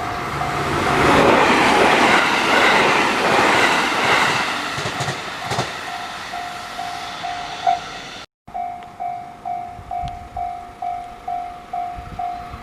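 A Japanese level-crossing warning bell dings steadily about twice a second while a train rushes past over the crossing, its wheel noise swelling loud in the first few seconds and fading. After a brief break about eight seconds in, the crossing bell keeps ringing on its own.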